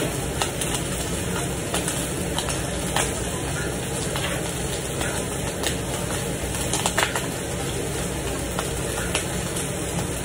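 Meat frying in a pan on the stove: a steady sizzle with sharp pops and crackles of hot fat scattered through it, a few close together about seven seconds in.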